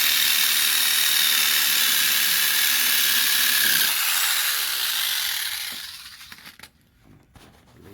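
Power saw cutting through the metal casing of a leaf-spring bushing, a steady rasp with high ringing tones that winds down and stops about five to six seconds in, followed by a few light clicks.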